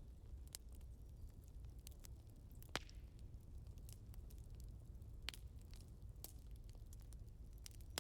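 Burning firewood crackling quietly: scattered sharp pops, the loudest a little under three seconds in, over a low steady rumble.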